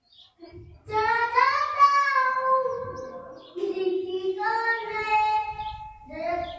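A high child's voice singing long, drawn-out notes in two phrases of two to three seconds each, with a third beginning near the end.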